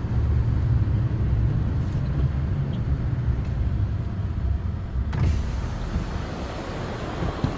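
Low rumble inside a car's cabin while it sits in stopped traffic. About five seconds in there is a sharp knock, and the rumble gives way to a steadier hiss.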